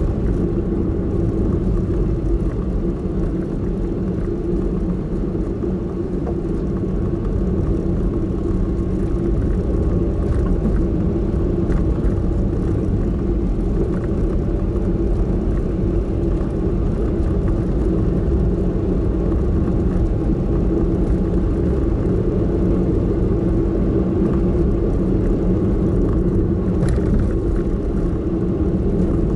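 Car driving, heard from inside the cabin: a steady low drone of engine and tyre noise with a faint hum over it.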